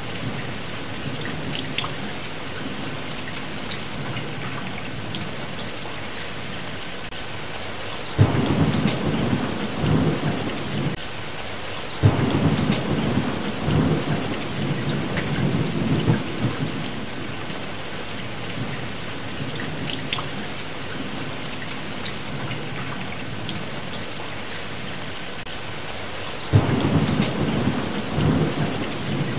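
Steady rain falling, with rumbles of thunder that break in suddenly three times, about a third of the way in, shortly after, and near the end.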